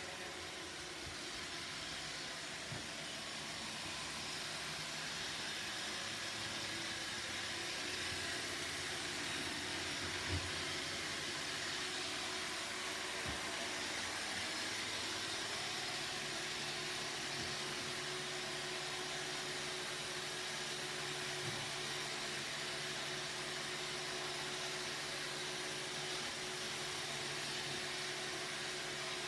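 Roomba robot vacuum running: a steady motor whir and hum that grows a little louder over the first few seconds, with a few faint knocks.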